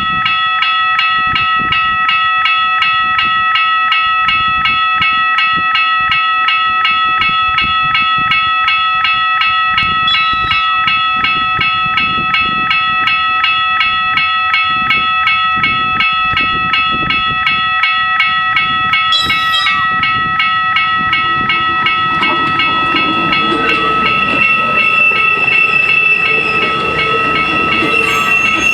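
Level crossing warning bells ringing with a fast, steady ding. From about two-thirds of the way in, a TMA diesel railcar is heard approaching and growing louder under the bells.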